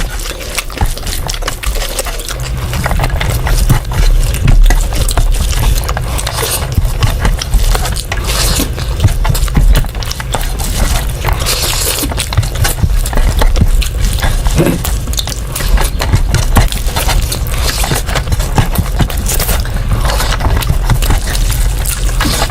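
Close-up eating sounds of a meal of rice and curry: chewing, with many small clicks and smacks, over a steady low rumble that grows louder about two and a half seconds in.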